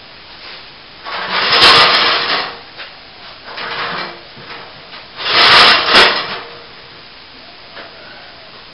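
Three bursts of rough scraping and rubbing, each about a second long, with a sharp knock in the first and last, from hand work on loose plasterboard of a collapsed ceiling.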